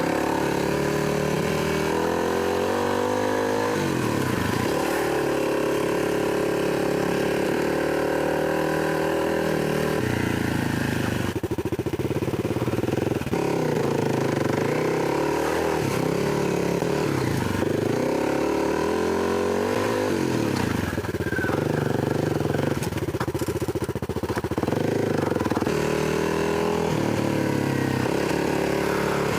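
Kawasaki KLX300 dirt bike's single-cylinder four-stroke engine under way on a trail, the revs climbing and dropping again and again with throttle and gear changes.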